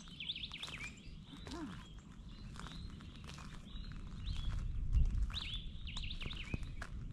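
Birds singing: bursts of quick, high chirping phrases, one near the start and another a little past five seconds in, over a low rumble that grows louder from about four seconds in.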